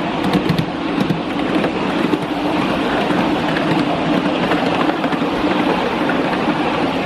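5-inch gauge model steam locomotive and its train running on the track: a steady rushing noise with a few sharp clicks in the first second.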